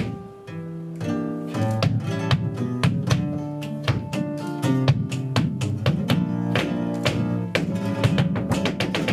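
Flamenco guitar playing a petenera: plucked notes mixed with sharp strummed chords in an even flow.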